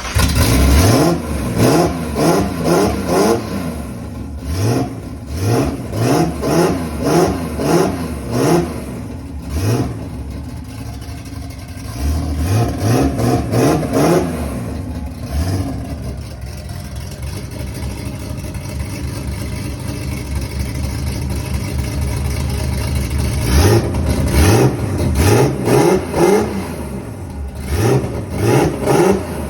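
Nissan GT-R drag-race engine running on its first start, revved in many short repeated throttle blips. About halfway through it settles to a steady idle for several seconds, then is blipped again near the end.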